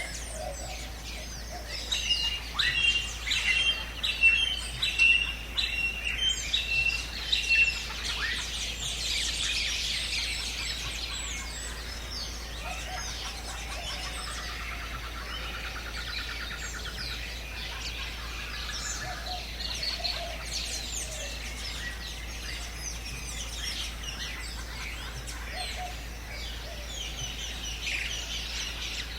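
A chorus of many birds chirping and calling in jungle ambience. In the first several seconds one bird gives a loud run of about a dozen repeated short whistled notes. Partway through, a rapid buzzing trill sounds for a few seconds.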